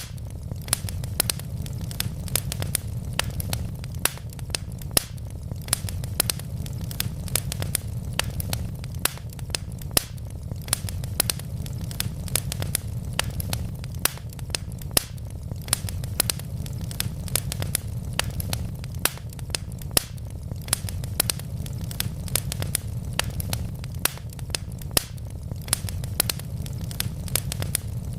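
Wood fire crackling steadily: a low rumble of burning logs with frequent sharp pops and snaps, several a second.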